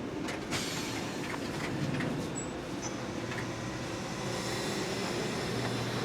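Walt Disney World monorail running along its beam, a steady low hum with a faint whine that swells slightly in the second half.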